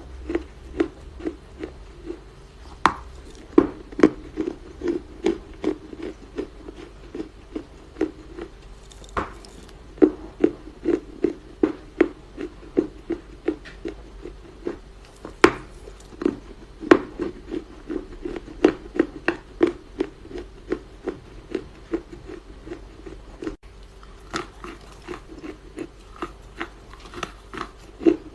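Chinese loess clay being crunched in a steady run of soft, short crunches, about two to three a second, with a brief pause about three-quarters of the way through.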